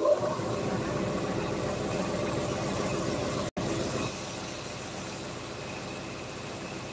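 A small motor-driven tool starting abruptly and running steadily. It drops out for an instant about three and a half seconds in, then carries on a little quieter.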